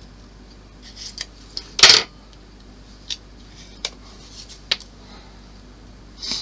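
Small hard model-kit parts being handled and set down on a work surface: a string of sharp clicks and light clatters, the loudest about two seconds in.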